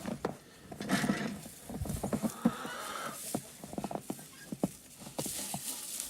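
Footsteps crunching through deep snow, an uneven run of crunches and scuffs.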